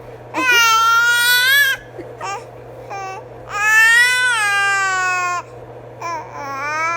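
Infant crying: two long wails of about one and a half to two seconds each, short cries between them, and a quavering cry near the end.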